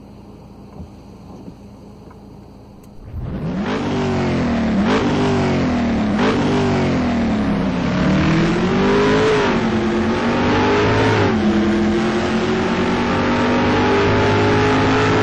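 Car engine accelerating hard, its pitch climbing and then dropping sharply at two quick gear changes, before rising and falling more gently and settling to a steady run. It starts abruptly about three seconds in.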